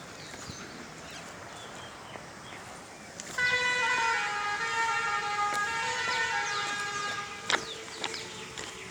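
Horn of a Kangra Valley narrow-gauge train sounding one long blast of about five seconds, starting a few seconds in. Its pitch dips slightly early in the blast. Faint bird chirps come before and after it.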